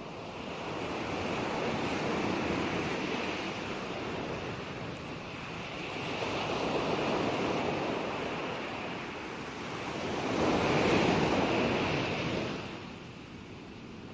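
Ocean waves breaking and washing on a shore, rising and falling in slow surges, about three of them, the biggest about ten seconds in.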